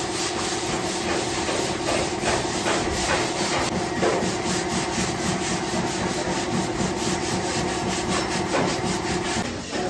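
A handheld electric power tool abrading car body metal: its motor runs at a steady pitch while the disc or pad is worked over the metal in repeated scraping strokes. It stops abruptly near the end.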